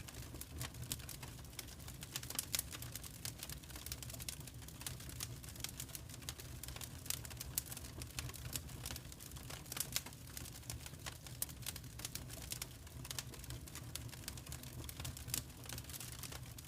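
Wood fire crackling in a fireplace: many irregular sharp snaps and pops over a low steady rumble.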